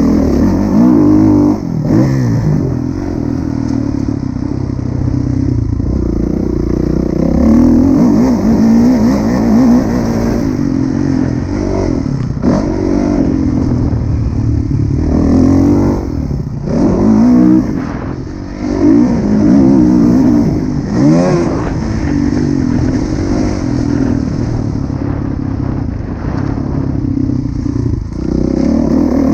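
Kawasaki KX450F four-stroke single-cylinder motocross engine revving hard, its pitch climbing and falling again and again as the throttle is opened and shut. There are brief cuts in the engine note about twelve, sixteen and eighteen seconds in.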